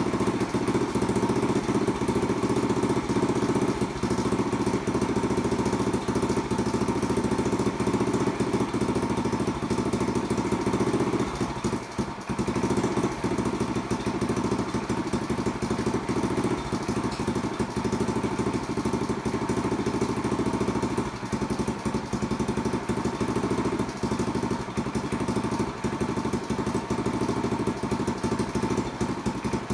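Honda Passport C70's 70 cc single-cylinder four-stroke engine running steadily at idle, with the carburettor's throttle slide now seating all the way down. The sound dips briefly about twelve seconds in.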